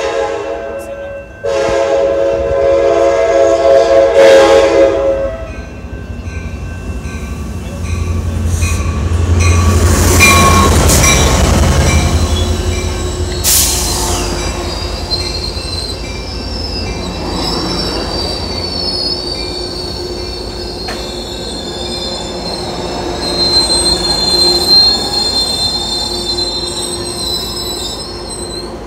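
A Coaster commuter train's F59PHI diesel locomotive sounds its horn, a short blast and then a longer one of about four seconds, as it arrives at a station. The train then rolls past with a heavy low rumble and a sharp clank about halfway through. For the rest of the time its wheels squeal in high, steady tones as it slows.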